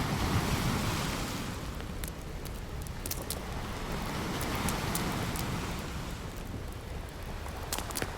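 Ocean waves washing ashore, swelling twice, once just after the start and again around the middle, with scattered sharp pops and crackles from a campfire.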